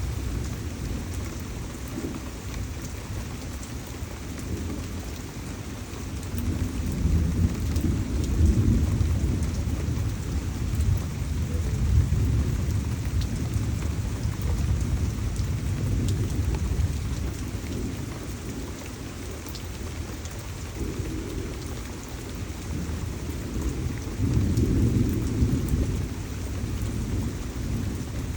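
Tropical rainstorm: steady heavy rain with low rolling thunder that swells about a quarter of the way in and again near the end.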